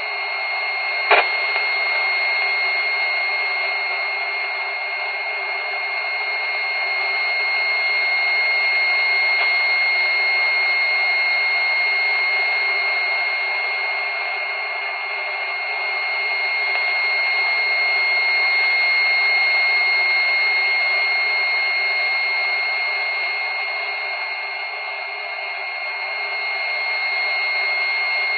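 Hallicrafters S-20 shortwave receiver's speaker playing a radar signal on 32.55 MHz, which the uploader identifies as a German radar system: a steady high-pitched whistle over dense hiss, slowly swelling and fading. A single click sounds about a second in.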